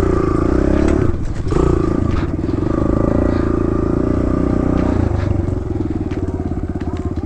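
Kawasaki KLX110 dirt bike's small single-cylinder four-stroke engine running at low revs on a trail ride. The throttle is eased off briefly a little after a second in, then picks up again and holds steady.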